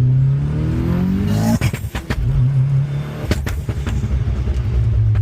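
Car engine revving, its pitch rising for about a second and a half, then dropping back with a few sharp clicks and running on at a steady low pitch.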